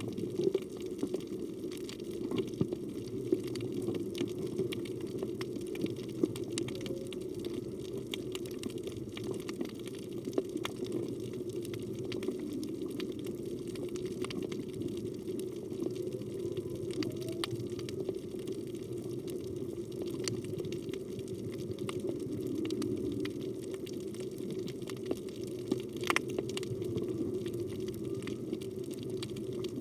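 Underwater ambient sound picked up by a phone below the surface: a steady low rush of moving water with scattered sharp clicks and crackles throughout.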